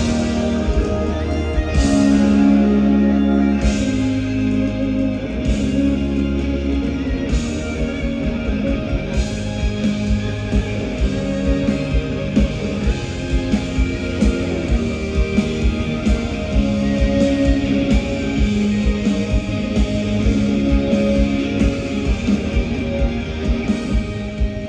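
A rock band playing live without vocals: electric guitar chords over bass. A few heavy accents mark the first several seconds, then the drums settle into a steady beat from about eight seconds in.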